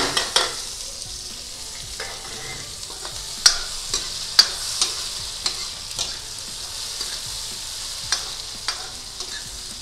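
Chopped tomatoes sizzling as they go into hot oil and frying onions in a metal kadhai, with a steady hiss. A metal ladle stirs and scrapes the pan, giving sharp clinks at irregular intervals, the loudest at the very start and twice around the middle.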